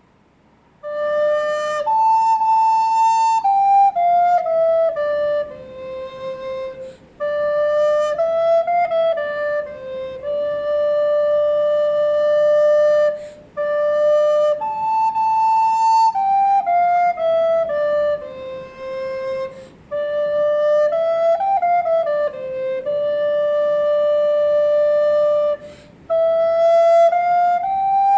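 A recorder playing a single-line melody in Dorian mode: held notes and stepwise descending phrases, with short breaths between phrases. It starts about a second in.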